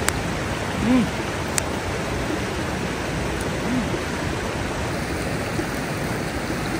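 Paneer sizzling in very hot oil, a steady frying hiss, with the oil hot enough to over-fry and scorch it. Two brief low sounds stand out, about a second in and again near four seconds.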